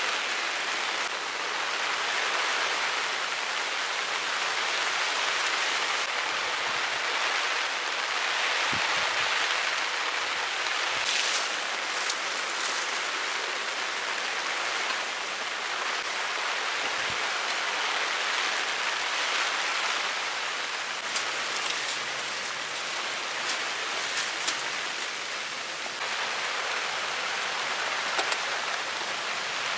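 Heavy rain falling steadily, with a few short sharp clicks here and there.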